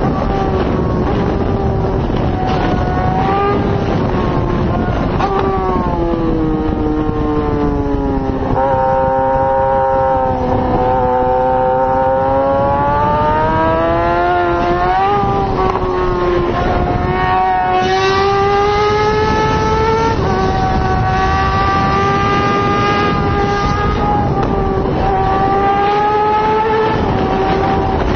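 Yamaha R6 sport bike's 600 cc inline-four engine running hard under way, heard from on board. Its pitch sinks for a few seconds, climbs back, jumps up sharply partway through and then holds high, over a steady rush of wind and road noise.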